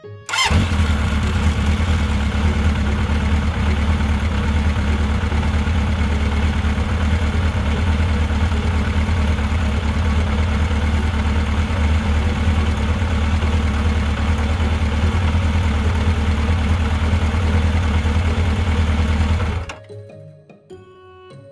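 Motorcycle engine running at a steady idle, starting suddenly and cutting off near the end.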